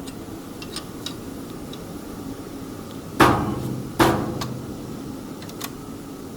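Two sharp metal bangs about a second apart in the middle, each ringing briefly, from metal parts of the band saw cutting machine being struck or knocked together during fitting, with a few small metallic clicks of handled parts around them.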